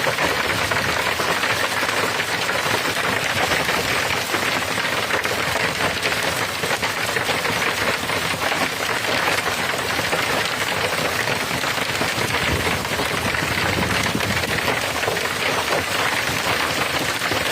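Pea-sized hail pelting down with rain: a steady, dense patter of countless small impacts.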